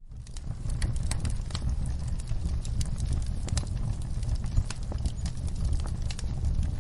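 Wood fire crackling in a fireplace: a steady low rumble of flames with irregular sharp pops and snaps, one louder pop about four and a half seconds in. The sound comes back in from a brief dropout right at the start.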